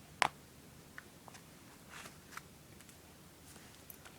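Handling noise: one sharp click about a quarter of a second in, then a few faint ticks, as cards and their holders are moved about.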